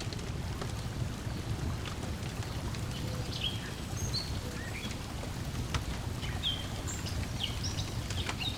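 Lakeside nature ambience: a steady low wash of water lapping, with birds chirping in short calls several times through the second half and a few faint crackles of a wood fire.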